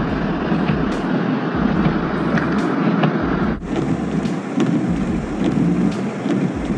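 Steady outdoor rumbling noise like street traffic, with a few faint clicks; the sound changes abruptly about three and a half seconds in.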